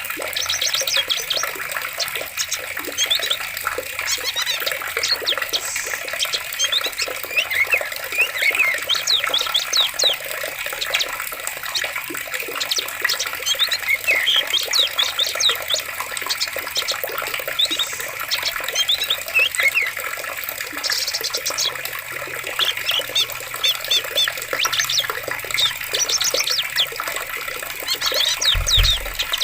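Flowing water with many small birds chirping over it, call after call throughout. A brief low rumble comes near the end.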